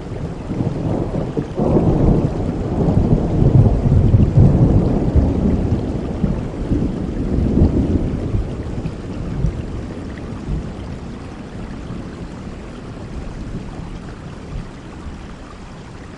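Heavy rain falling steadily, with a long rolling rumble of thunder that builds about a second and a half in, is loudest a few seconds later and dies away over several seconds.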